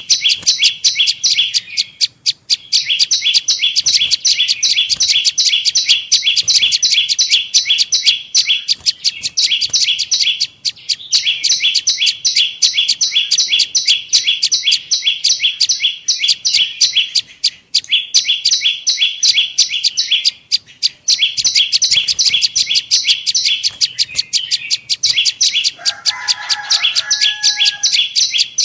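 Lure recording of a prenjak lumut calling: a fast, even run of sharp high chirps, repeated many times a second in long bursts with short pauses between them. Near the end a brief, lower two-note call sounds once over the chirping.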